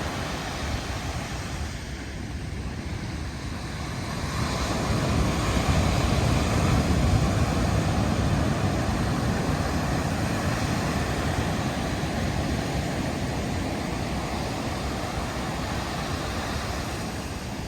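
Ocean surf from typhoon swell breaking and washing on the beach, with wind buffeting the microphone. The wash swells about four seconds in and then slowly eases.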